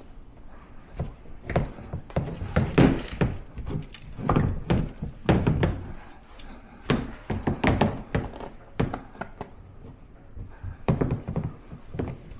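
Repeated knocks and scraping from a bird cage part being scrubbed clean by hand, coming in irregular clusters.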